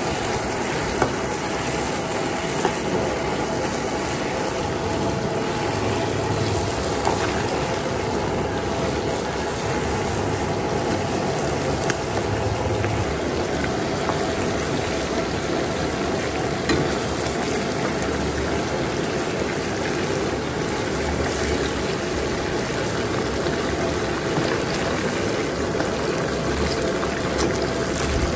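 Chunks of puffer fish deep-frying in hot oil in a wok, with a steady sizzle and bubbling. A few sharp knocks of a metal skimmer against the pan as the pieces are stirred and lifted out.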